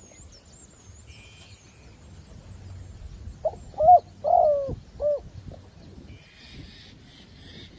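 Decoy zebra dove cooing: a short phrase of about four coo notes near the middle. Small birds chirp faintly in the background.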